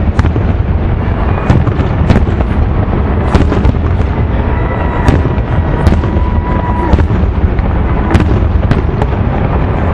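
Aerial fireworks going off in a dense barrage: many sharp bangs and cracks, one after another, over a continuous low rumble.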